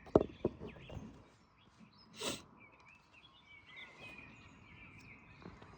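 Faint bird chirps over low outdoor background noise. A sharp knock comes just after the start, followed by a few lighter clicks, and a short breathy rush about two seconds in.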